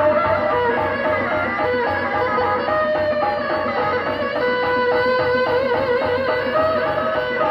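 Sundanese benjang accompaniment music: a fast, ornamented wind melody played over steady drumming.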